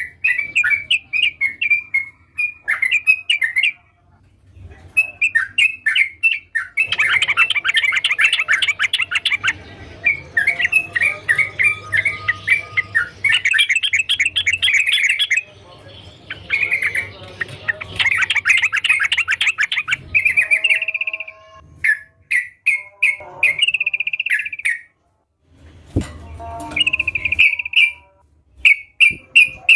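Yellow-vented bulbul (trucukan) singing vigorously: rapid chattering phrases of quick repeated notes, with short breaks between bouts and an especially dense stretch in the middle.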